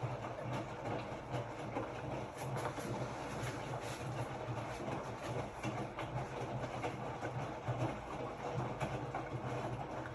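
Hotpoint-Ariston RSG 825 J washing machine running: a steady low motor hum under a rumbling wash noise, with irregular small knocks.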